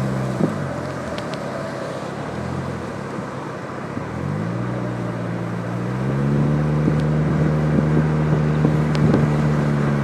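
Car engine heard from inside the cabin while driving, its pitch dipping briefly, then climbing about four seconds in and again near six seconds before holding steady, over a steady rush of road and wind noise.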